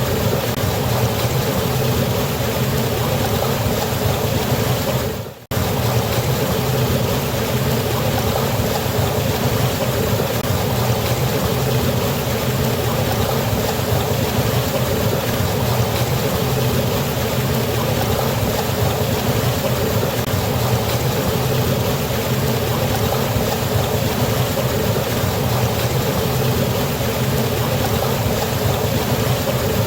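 Waterfall rushing steadily, with a continuous full hiss of falling water. About five seconds in, the sound briefly fades away and then cuts straight back in.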